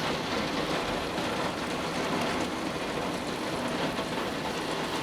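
Torrential rain pouring down in a steady, dense roar, with water running off overwhelmed, overflowing gutters.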